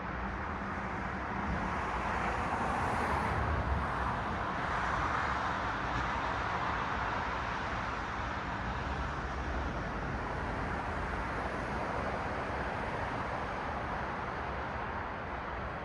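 Road traffic: a steady wash of tyre and engine noise from cars going by, swelling a couple of seconds in as a vehicle passes and then easing off slowly.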